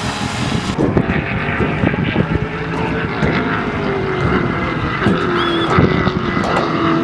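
Race car engines running at the track, their engine notes drifting and slowly falling in pitch.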